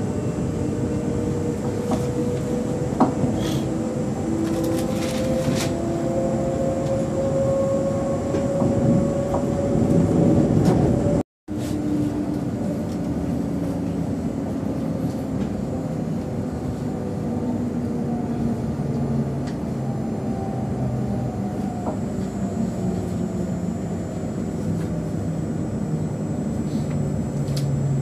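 Passenger train running, with its motor tones rising slowly in pitch as it gathers speed. After a short break in the sound about eleven seconds in, the tones fall as it slows, over a steady running rumble.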